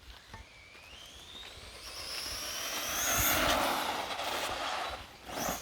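Redcat Volcano 1/10 RC truck with a 4S brushless electric motor accelerating at high speed: a rising motor whine with tyre noise on pavement, loudest about three seconds in as it passes, then fading.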